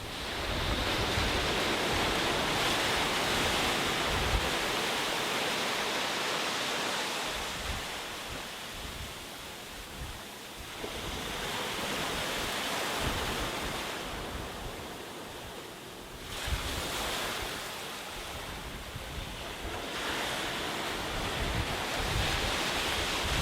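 Sea waves washing onto a beach: the surf swells and ebbs in several slow surges, one every few seconds, with low rumbling gusts beneath.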